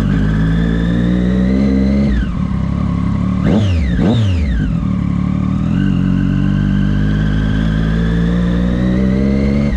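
Triumph Daytona 675's three-cylinder engine pulling away at low speed, revs climbing slowly and dropping about two seconds in. Then two quick revs rise and fall around the four-second mark, and it pulls steadily again.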